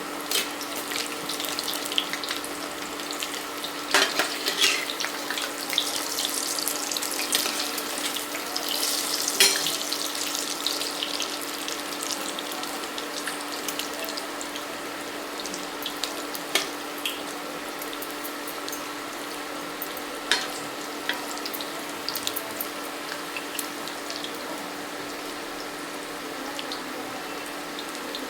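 Chicken pakoras deep-frying in hot oil: a steady sizzle with many crackles and pops, busiest in the first ten seconds or so and settling after that. A steady low hum runs underneath.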